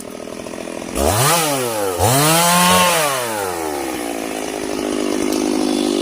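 Stihl chainsaw engine ticking over, then revved hard about a second in, dropping briefly and revving up again, before easing back to a steady lower speed.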